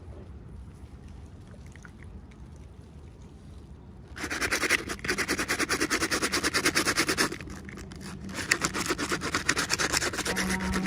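Rapid scratching on packaging by hand, in many quick strokes. It comes in two runs of about three seconds each, the first starting about four seconds in.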